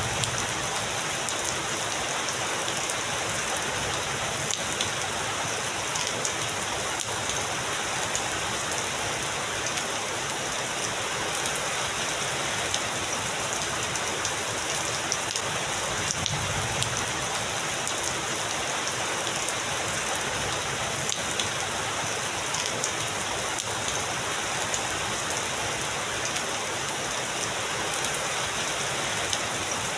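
Heavy rain falling steadily, with single drops ticking through the hiss.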